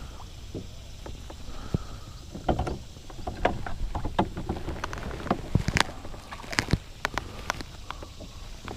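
Irregular knocks and clicks of gear being handled aboard a fishing kayak, knocking against the hull, over a low rumble of wind on the microphone.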